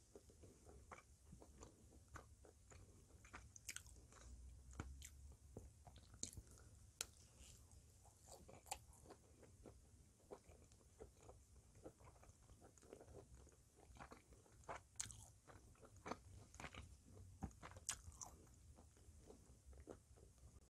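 Quiet, close-up chewing of smoked pork spare rib: irregular wet mouth clicks and small crunches of the crisp crust as the meat is chewed.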